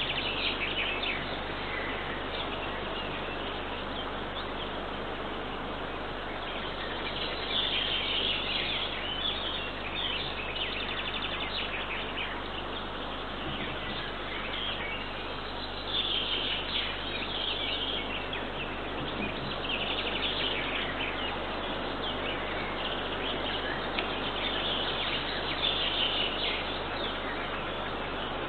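Small birds singing in the surrounding forest in repeated bursts of high chirping phrases, a few seconds apart, over a steady background hiss.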